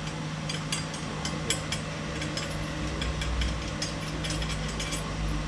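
Irregular sharp metallic clicks and clinks of bolts and hand tools being handled on an engine block, over a steady low hum.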